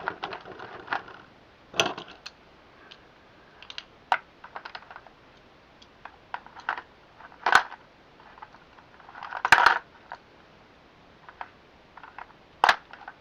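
Scattered sharp clicks and clacks of small hard Beyblade X tops being handled and set down on a hard surface: five louder clacks spaced a couple of seconds apart, with lighter taps between.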